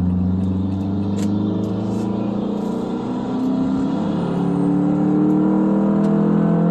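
Semi-truck diesel engine pulling under load, its note rising as it accelerates. The note falls away about two and a half seconds in and climbs again from about four seconds, as at a gear change.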